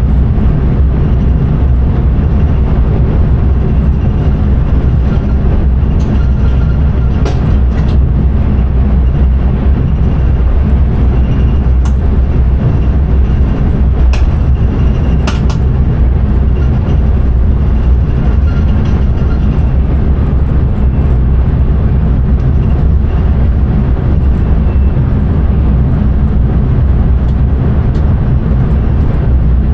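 Passenger train running at speed, a steady loud low rumble of wheels and running gear, with a few brief clicks along the way.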